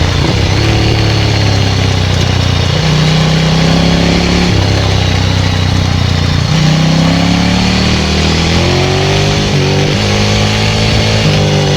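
Ducati 900SL's air-cooled V-twin running loud through a Termignoni full exhaust while being ridden, its engine note climbing and dropping back in steps several times as the throttle is worked.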